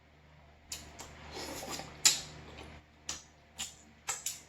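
Close-up eating sounds of a hamburger dipped in butter sauce: about six sharp, wet mouth clicks and lip smacks, with soft squishy chewing between them.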